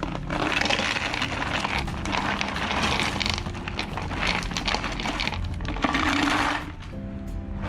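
Plastic storage bag rustling and crinkling as it is handled, an uneven crackle that stops shortly before the end, over quiet background music.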